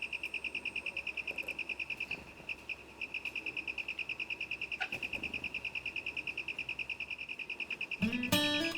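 An insect, cricket-like, giving a steady high-pitched pulsing trill of about ten pulses a second, with one short break a little over two seconds in. Guitar music comes in near the end.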